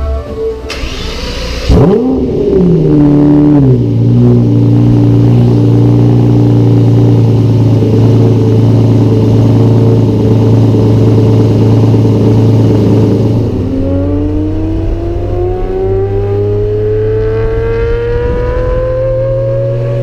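Lamborghini Murciélago V12 with a Fabspeed motorsport exhaust starting up about two seconds in, flaring sharply and falling back to a steady idle. Over the last several seconds the revs climb in one slow, steady rise.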